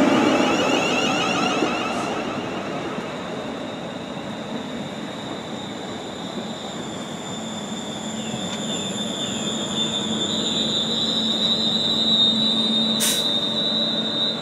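West Midlands Railway electric multiple unit moving slowly along the platform. The running noise carries a steady high whine, with a few short wheel squeals partway through and a single sharp click near the end.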